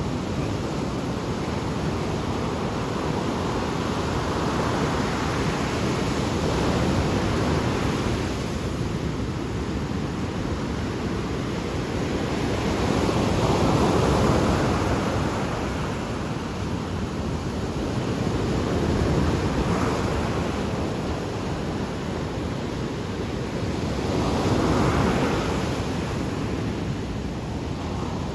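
Ocean surf: waves breaking and washing in, the noise swelling and ebbing in surges roughly every five seconds.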